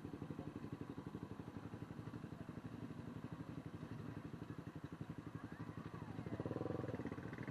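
Small motorcycle engine running steadily with a fast, even pulse, growing louder for a moment near the end.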